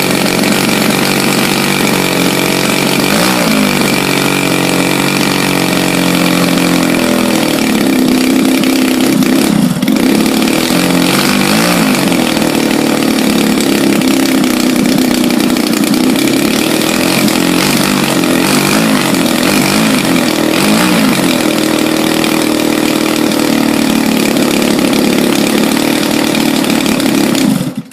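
EVO 120cc gasoline engine of a 36% scale Sbach model aerobatic plane running on a ground test, its pitch rising and falling as the throttle is worked. It cuts off suddenly near the end.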